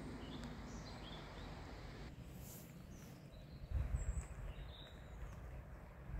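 Small birds chirping a few short times over a steady low outdoor rumble, with a louder low rumble about four seconds in.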